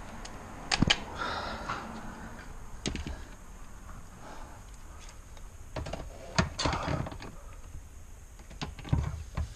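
Scattered sharp clicks and knocks of car interior parts being handled and fitted: a few about a second in, one near three seconds, and a cluster around six to seven seconds.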